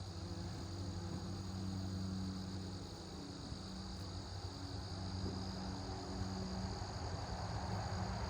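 Bees buzzing with a low, steady hum that drops out briefly now and then, over a continuous high chirring of insects.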